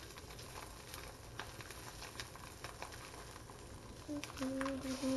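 Stingray pieces frying in butter in a pan: a soft steady sizzle with fine crackling pops. A low humming tone comes in about four seconds in.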